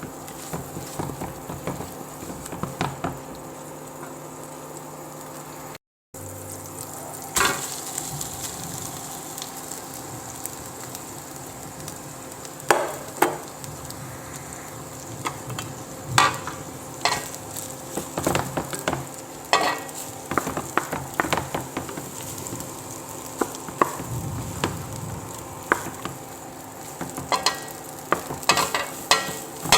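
Food frying and sizzling in a pan while it is stirred, with a utensil scraping and clicking against the pan now and then.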